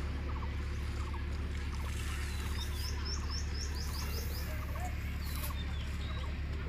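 Birds calling over a steady low rumble, with a quick run of high, falling chirps about two and a half seconds in.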